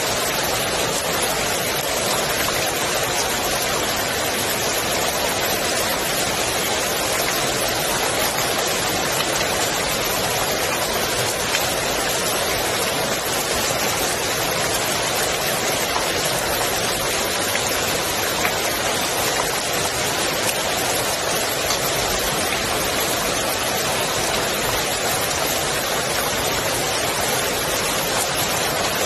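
Steady rain falling onto the water of a swimming pool, an even, unbroken hiss of drops.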